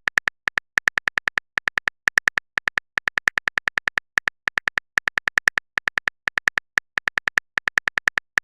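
Typing sound effect for a text chat: rapid short clicky ticks, about five a second, in uneven runs broken by brief pauses.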